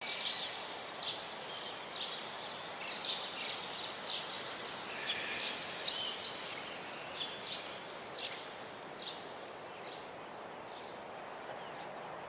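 Birds chirping and calling in quick, overlapping short notes over a steady rushing background noise; the calls thin out over the last few seconds.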